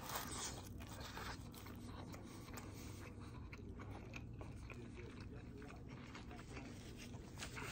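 Faint chewing and crunching with scattered small clicks, a little louder just at the start and again near the end.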